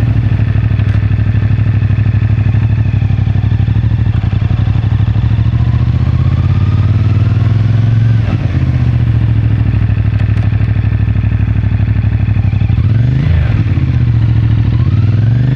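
CFMoto 450MT's parallel-twin engine on its stock exhaust, running at steady revs. The pitch dips briefly and recovers about eight seconds in and again near thirteen seconds, then climbs near the end as the bike accelerates.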